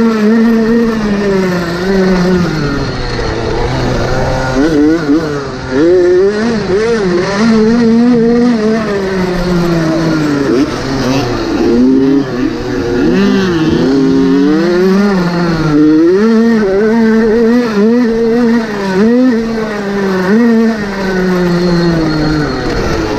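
Motocross motorcycle engines racing, revving up and falling back over and over, their pitch rising and dropping every second or two.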